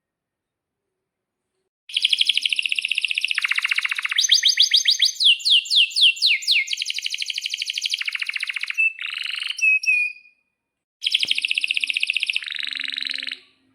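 Male domestic canary singing long rolls of fast, high trills with a run of quick falling whistled notes. The song starts about two seconds in, pauses briefly just after ten seconds, and resumes for a second burst.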